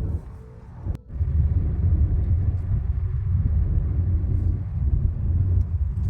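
Low, steady rumble of a car driving, road and engine noise, with a short quieter stretch that ends in a sharp click about a second in.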